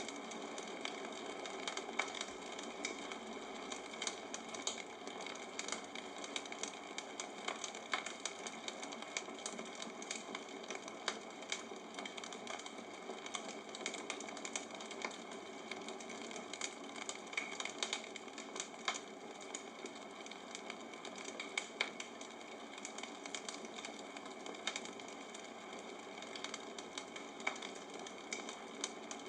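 Bonfire crackling: wood burning with a steady hiss and a constant scatter of irregular sharp pops and snaps.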